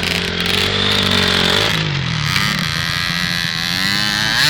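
Motocross motorcycle engines revving, the pitch rising and falling as the throttle opens and closes, climbing again near the end.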